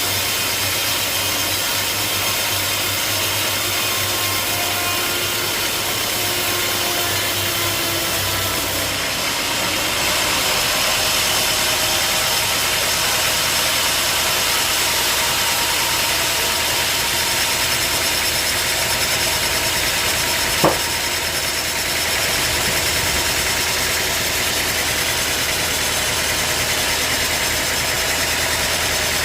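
A sawmill's engine running steadily, its low hum shifting and getting slightly louder about ten seconds in. There is one sharp click about two-thirds of the way through.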